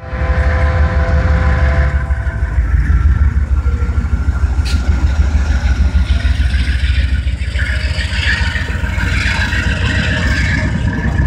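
Diesel train locomotive running with a loud, steady low rumble. Several steady whining tones fade after about two seconds, and a hiss builds in the last few seconds.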